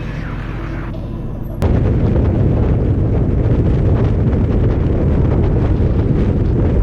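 Background music for about a second and a half, then an abrupt cut to the loud, dense low rumble of a semi truck driving on the road.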